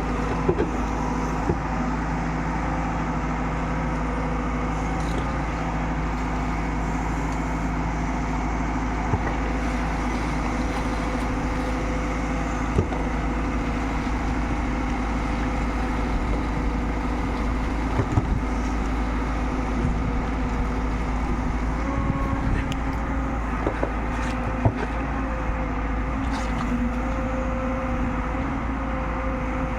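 JCB 3DX backhoe loader's diesel engine running steadily, with a slight rise in pitch a little past twenty seconds and a few short knocks scattered through.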